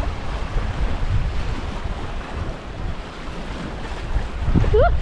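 Wind buffeting the microphone, a gusty low rumble that rises and falls, with a brief rising pitched sound near the end.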